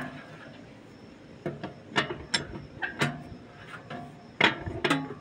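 Metal tools and parts clinking and knocking: about ten sharp, irregularly spaced strikes, some with a brief ring, the loudest two near the end.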